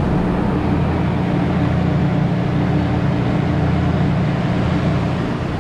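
Freezer evaporator fan motors running steadily: a constant low hum with a rush of moving air. One of the two fans seems to run a bit slower than the other.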